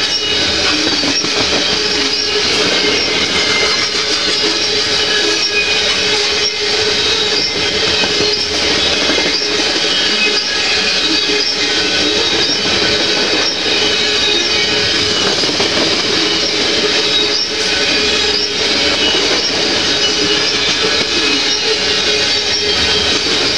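Covered hopper cars of a CPKC freight train rolling steadily past at close range: steel wheels clacking over the rail joints, under a steady high ringing whine from the wheels.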